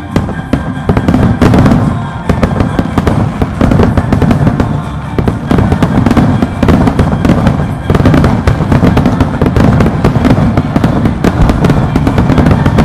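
Aerial fireworks shells bursting in a rapid, dense barrage, the bangs and crackles overlapping with hardly a gap; it starts abruptly at the very beginning, with music playing underneath.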